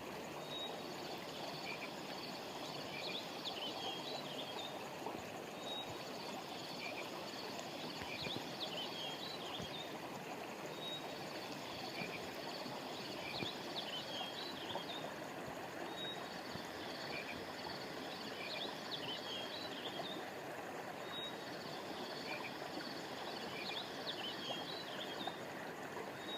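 River or stream water running steadily, with small birds chirping high over it; the bird chirps recur in much the same pattern about every five seconds.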